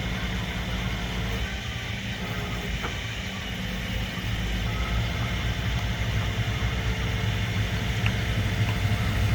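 Truck engine idling steadily, a low hum that grows a little louder about halfway through.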